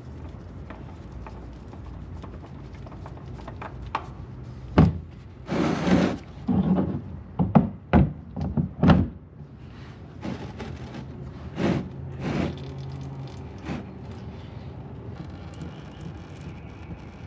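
Knocks, clunks and short scrapes of hand tools and parts being handled while the oil filter is taken off a 6.4 L HEMI engine, bunched together from about five to nine seconds in, with a few more after, over a steady low hum.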